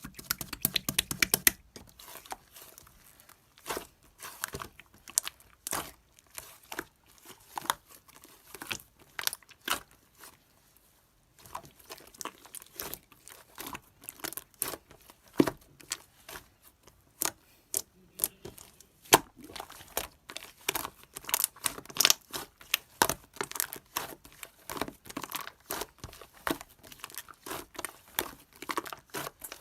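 Clear slime being squeezed and worked by hand: a stream of sticky pops and clicks, with a fast run of clicks at the start and a short pause about ten seconds in.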